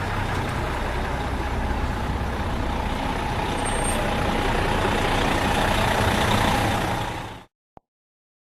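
Truck sound effect: a steady rumble with a low hum under a hissy noise, running about seven seconds before cutting off abruptly.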